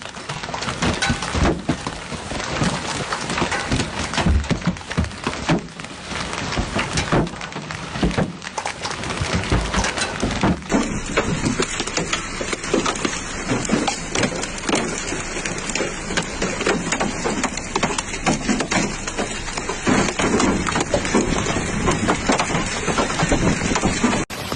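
Hailstones pelting hard surfaces in a heavy hailstorm: a dense, continuous clatter of many small impacts. The sound changes abruptly about ten seconds in, as if to another spot in the same storm.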